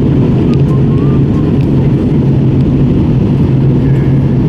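Airbus A320 passenger cabin noise: a steady, loud rush of engines and airflow with a constant low hum.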